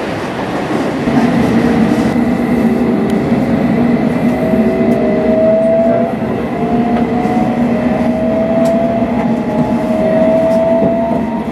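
Metropolitan line train pulling away from a station, heard from on board: a steady running rumble, with the traction equipment's whine rising in repeated steps as the train gathers speed.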